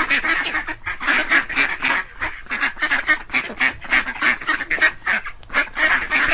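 Ducks quacking, a dense, rapid run of short repeated quacks with no let-up.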